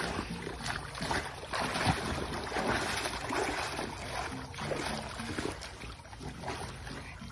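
Pool water splashing and sloshing as a dog swims, an uneven rushing with small irregular splashes.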